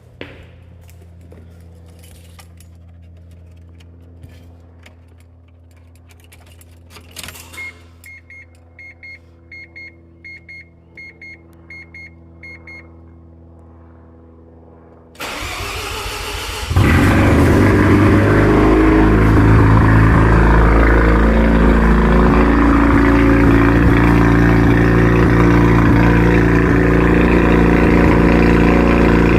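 Mazda RX-7 FD's twin-rotor 13B rotary engine cold-starting: a quiet hum with a few clicks and a beeping chime about twice a second, then the starter cranks for about a second and a half and the engine catches and runs loud and steady at a cold-start idle.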